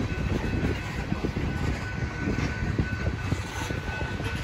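Freight train of tank cars rolling past at close range: a steady rumble with wheels clicking on the rails, and a thin steady high tone through it.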